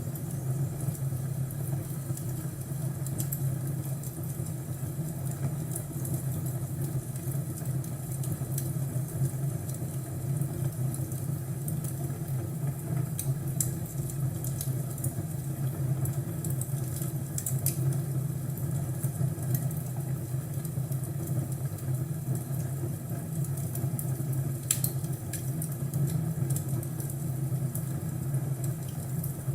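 Fireplace fire crackling: scattered small pops and snaps over a steady low rumble.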